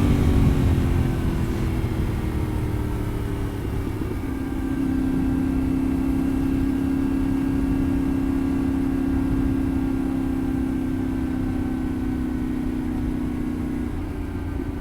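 Yamaha Ténéré 700's parallel-twin engine under way, heard from the bike: the pitch peaks right at the start after hard acceleration and eases down, then holds a steady drone at cruising speed from about four seconds in until it fades near the end, over low wind rumble.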